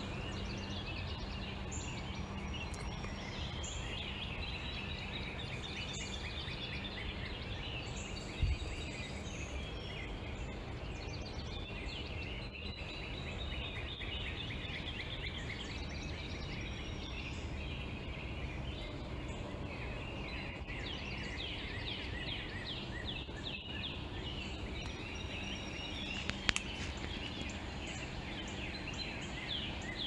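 Several songbirds chirping and trilling over a steady low hum and background noise, with a brief click about a third of the way in and another near the end.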